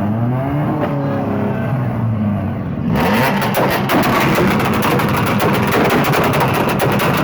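Car engine being revved, its pitch rising and falling. About three seconds in it jumps to a much louder, harsher full-throttle rev that holds, as loud as ear-splitting.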